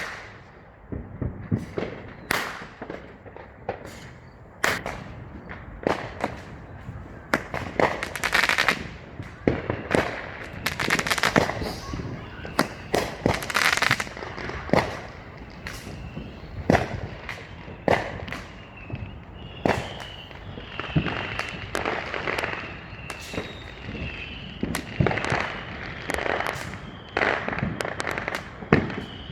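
Consumer fireworks and firecrackers going off in rapid succession, dozens of sharp bangs and crackles of varying loudness overlapping throughout.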